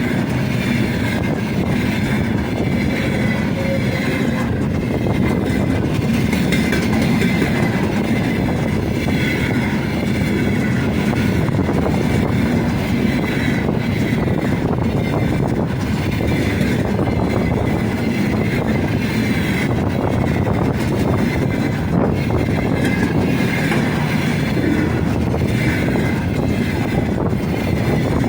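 Freight train rolling past at speed: a steady, loud rolling noise of wagon wheels on the rails.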